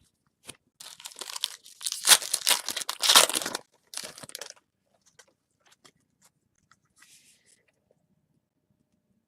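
A foil baseball card pack wrapper being torn open and crinkled in a run of loud ripping strokes, loudest about two to three and a half seconds in, followed by faint light rustles and ticks as the cards are handled.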